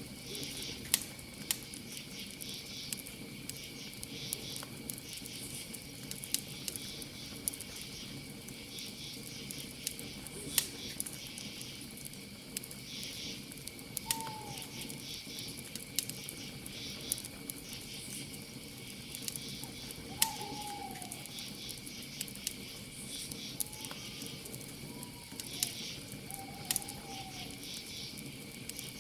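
Campfire burning with frequent sharp crackles and pops over a low hiss, while crickets chirp steadily in a high pulsing chorus. A few short falling calls of a night bird come through about halfway in and again toward the end.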